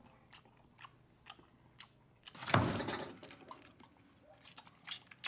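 Close-up chewing of a mouthful of ramen noodles: scattered wet mouth clicks, with one louder, noisier sound lasting under a second about two and a half seconds in.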